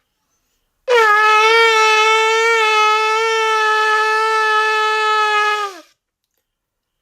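A shofar (ram's horn) sounded in one long, steady blast lasting about five seconds, starting about a second in; the note wavers slightly and sags in pitch as it dies away at the end.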